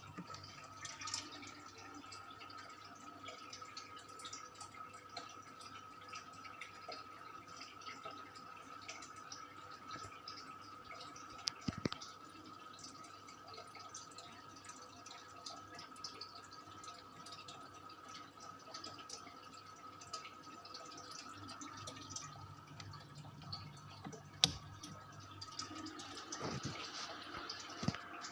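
Industrial 56-inch ceiling fan running: a steady high whine over a soft rush of air, with a few scattered clicks.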